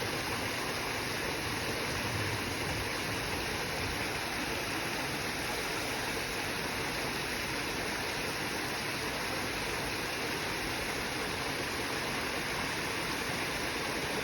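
Steady rushing water, like a stream or small waterfall, an even unbroken wash of sound.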